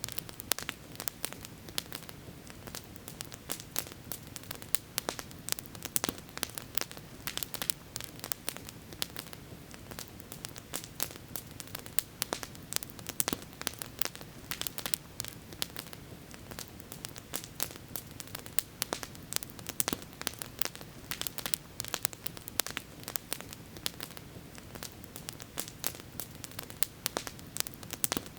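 Campfire wood burning and crackling, with many sharp pops and snaps coming several times a second over a steady low rush.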